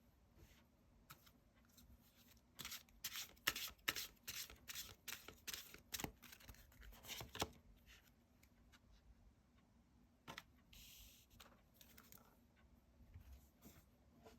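Tarot cards being shuffled and handled: a quick run of crisp card snaps for about five seconds, then a few scattered single taps and slides.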